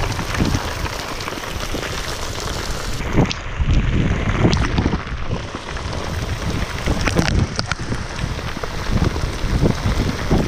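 Rain and wind noise on the camera during a motorcycle ride in the rain: a loud, steady hiss with irregular knocks and a low rumble underneath.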